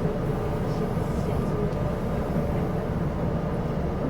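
Chu-Kuang express passenger train running at speed, heard from inside the carriage: a steady rumble and rush of wheels on rails with a faint steady tone.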